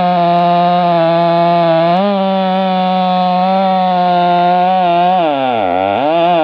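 Two-stroke chainsaw running steadily at high revs; about five seconds in, the engine speed drops sharply and climbs straight back up within about a second.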